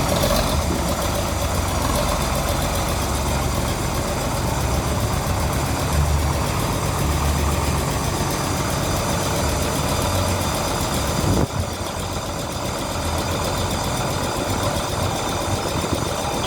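John Deere 4240 tractor's six-cylinder diesel engine running steadily with a deep, uneven low rumble. About eleven and a half seconds in there is a brief knock, after which it runs slightly quieter.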